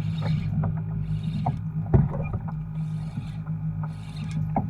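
A steady low mechanical hum, with scattered knocks and clicks and short bursts of hiss like splashing water.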